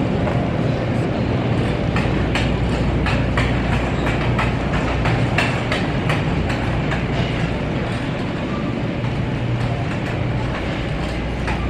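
Shopping cart rolling across a store floor, its wheels and frame rattling with a steady rumble and many irregular clicks.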